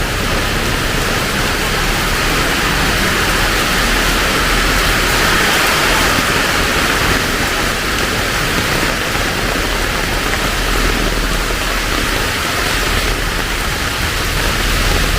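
Heavy rain pouring steadily, a dense loud hiss with a low rumble underneath.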